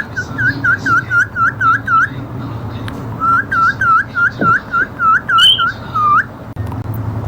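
Whistling: a rapid string of short scooping whistle notes, about four a second, in two runs with a pause of about a second between them. The second run ends on a lower drawn-out swoop, with a brief higher chirp just before it.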